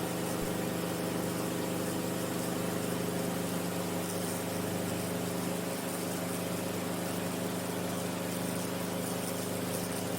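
Enstrom F28F light piston helicopter in flight, its engine and rotors making a steady drone of several even pitches, held under power on a go-around after a practice autorotation.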